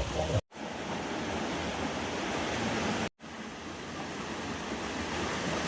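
Steady rushing of a waterfall, an even wash of water noise, broken twice by brief silent gaps from edit cuts, near the start and about three seconds in.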